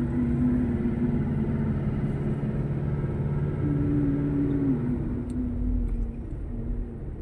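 Motor vehicle engine running with a steady low hum and rumble. Its pitch steps up briefly and drops back about halfway through, as the engine speed changes.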